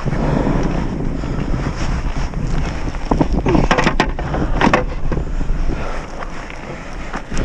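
Wind buffeting the microphone, a steady low rumble, with a few short sharp knocks or splashes about three to five seconds in.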